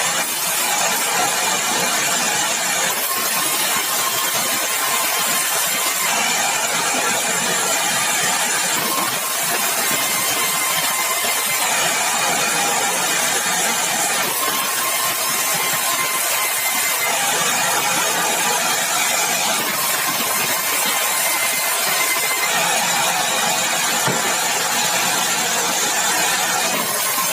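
Sawmill saw running and cutting meranti batu timber: a loud, steady mechanical noise whose high whine changes every few seconds.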